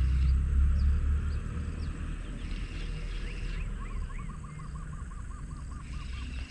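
Birds calling over a low outdoor rumble: scattered short chirps, then from about four seconds in a bird repeats one looping note about five times a second for a couple of seconds. The rumble is loudest in the first second or two.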